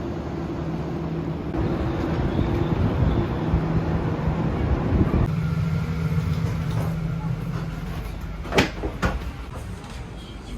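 Steady mechanical hum inside a train carriage, with two sharp knocks like a door or compartment fitting near the end.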